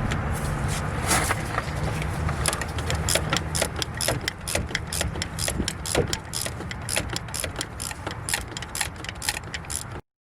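Ratchet wrench clicking in quick, even strokes, about four a second, as the alternator mounting bolts are run in, over a steady low rumble. The clicking starts a couple of seconds in and the sound cuts off abruptly near the end.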